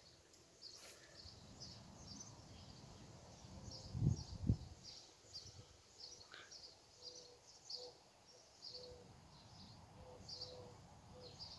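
Small birds chirping: short high chirps repeating about twice a second, with two low thumps about four seconds in.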